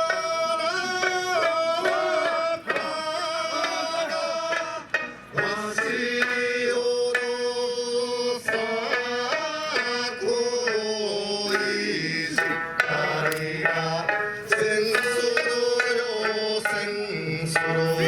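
Traditional Okinawan eisa music: a sung melody over plucked sanshin, punctuated by regular strikes of taiko drums.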